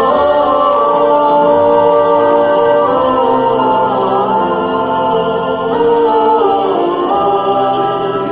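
A choir singing a cappella, holding long chords whose notes move every second or two.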